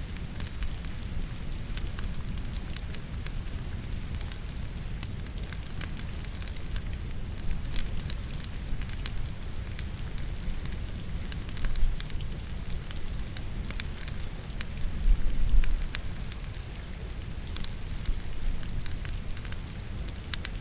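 Wood logs burning in a fireplace, with scattered sharp crackles and pops, over a steady low rush of rain. A louder low rumble comes about 15 seconds in.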